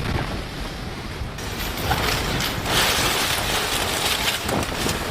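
Storm-force wind with rattling and clattering, the sound changing abruptly about a second and a half in.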